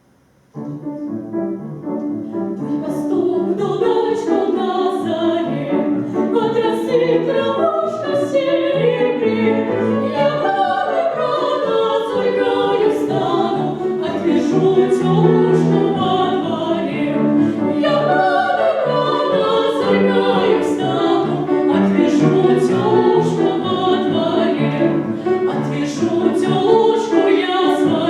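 Classical singing in an operatic style with musical accompaniment. It starts suddenly about half a second in and carries on with sustained, wavering vocal lines.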